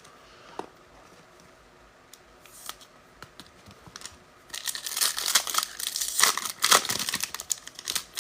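A foil trading-card pack wrapper being torn open and crinkled, with a few faint handling clicks before the loud crackling starts about halfway through.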